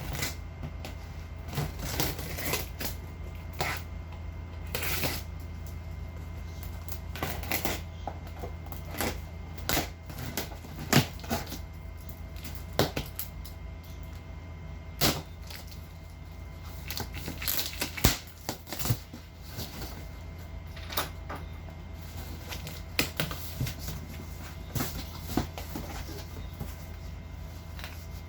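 Boxes and packaging being handled: irregular clicks, knocks and rustles, several a second at times, with a steady low hum underneath.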